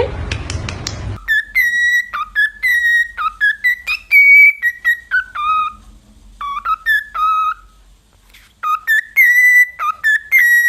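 A parrot whistling a tune: a string of clear whistled notes that step and glide up and down, in phrases broken by a pause of about two seconds. A brief stretch of noise and clicks comes first.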